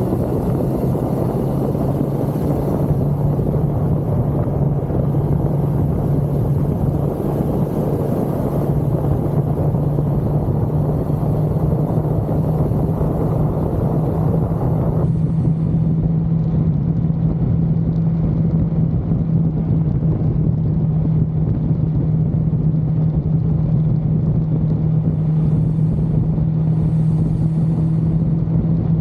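1982 Suzuki GS550L's air-cooled inline-four engine running steadily at cruising speed, its pitch rising slightly a few seconds in. Heavy wind rush over the bike masks it until it falls away suddenly about halfway through.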